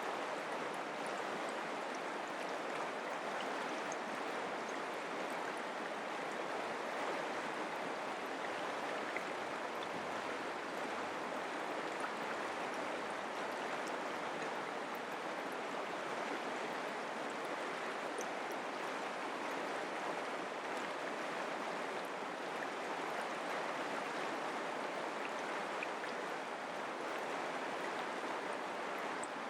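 Mountain creek water running, a steady, unchanging flow.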